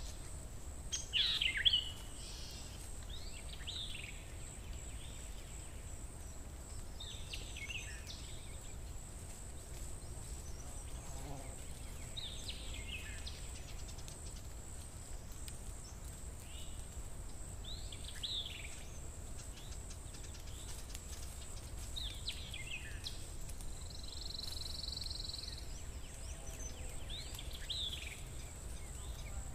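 Birds chirping now and then: short falling calls every few seconds, the loudest about a second in, over a steady low hum and a faint steady high-pitched tone.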